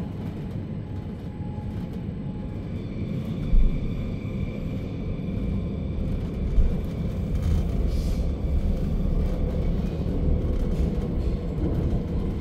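Inside a double-deck Re 450 push-pull train running on the line: a steady low rumble from the wheels and running gear, with a faint steady high tone. Two short heavy thumps come about 3.5 and 6.5 seconds in.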